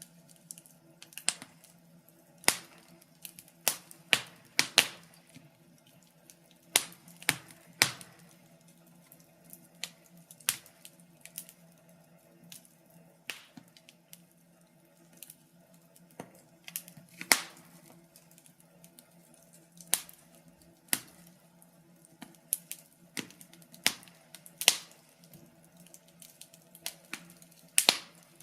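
Wood burning in a fireplace, crackling with irregular sharp pops and snaps, about one or two a second, over a faint steady low hum.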